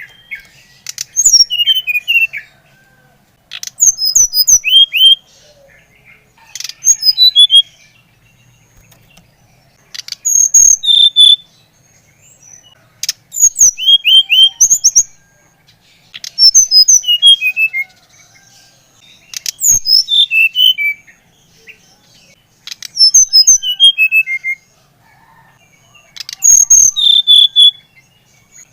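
Sikatan rimba dada coklat (fulvous-chested jungle flycatcher) singing: loud phrases of quick, sliding whistled notes, each phrase lasting a second or two and repeated about every three seconds.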